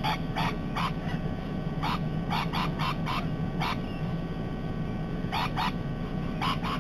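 Parrots giving short, harsh squawks in irregular clusters, with a lull in the middle, over a steady low rumble.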